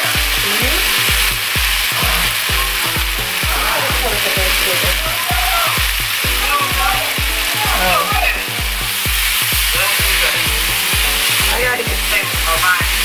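Chicken and bell pepper strips sizzling in a hot skillet, with a spatula stirring the pan near the end. Background music with a steady bass beat plays throughout.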